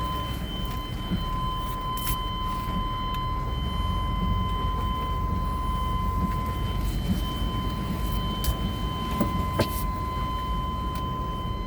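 Dashboard warning buzzer in a 1990 GMC Sierra pickup's cab, stuck on and sounding one steady high tone without a break. Beneath it runs the steady low rumble of the truck's engine and the road, with a few light clicks and knocks.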